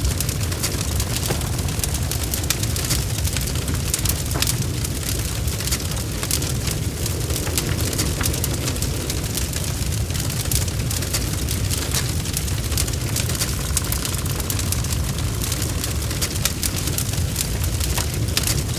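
Wood fire crackling, with many small sharp snaps and pops over a steady low rumble of the flames.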